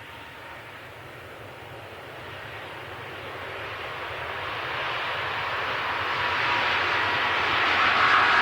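Jet airliner engines, the Airbus A350-1000's Rolls-Royce Trent XWBs, at departure power, their roar swelling steadily as the aircraft draws nearer, with a faint whine coming through near the end.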